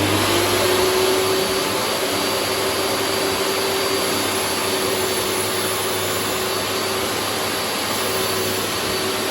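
Table saw switched on and spinning up, then running steadily at full speed. The motor and blade give a loud, even hum and whine.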